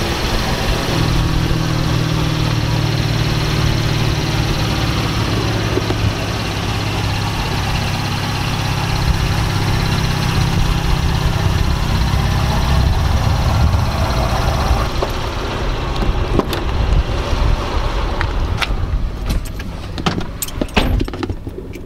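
Chevrolet Camaro engine idling with a steady low hum. In the last several seconds comes a run of sharp clicks and knocks.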